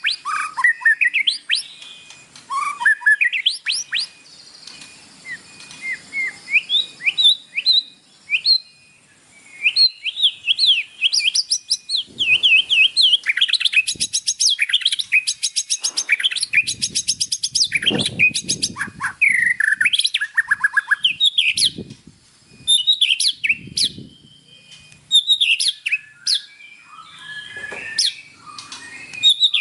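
White-rumped shama (murai batu) singing a loud, varied song of whistled phrases, sweeping notes and rapid trills, broken by short pauses. Some low, muffled rumbling sounds under the song around the middle.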